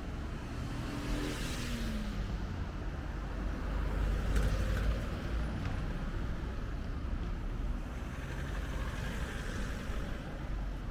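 Road traffic passing, one vehicle going by early with a falling pitch and another swelling past near the end, over a steady low wind rumble on the microphone.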